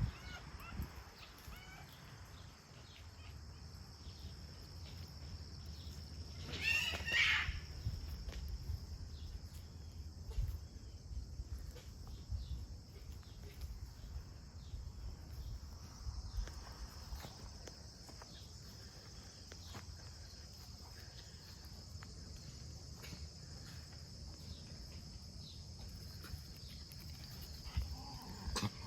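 Outdoor ambience: a steady high insect drone throughout, over a low rumble with small rustles and clicks. One short wavering call stands out about seven seconds in.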